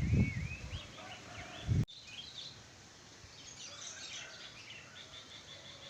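Wild songbirds chirping and twittering with many short, varied calls, some rising higher and faster near the middle. A few low thuds sound in the first two seconds, then stop abruptly.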